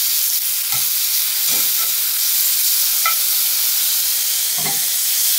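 Oyster mushrooms sizzling in oil in a hot cast-iron skillet, a steady hiss, with a few light clicks of metal tongs against the pan as the pieces are flipped.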